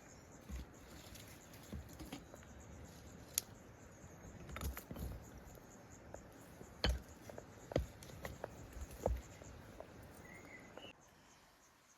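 Scattered light clicks and knocks over a steady faint hiss, with a short bird chirp near the end.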